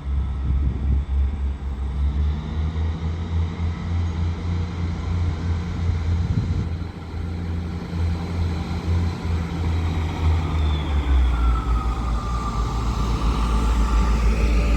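Northern Class 158 diesel multiple unit's engines running as it pulls out, a steady low drone throughout with a whine that glides in pitch and a change in the drone about ten to eleven seconds in.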